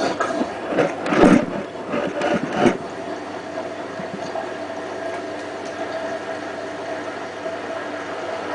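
Hotpoint WT960 washing machine running with water in the drum: uneven swishing surges for the first few seconds, then a steady hum.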